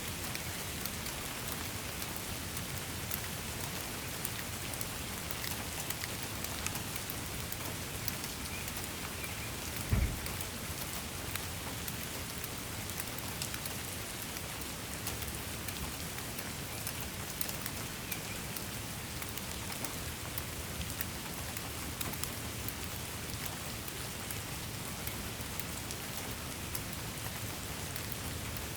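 Steady rain falling, an even hiss dotted with many small drop ticks. One brief low thump sounds about ten seconds in.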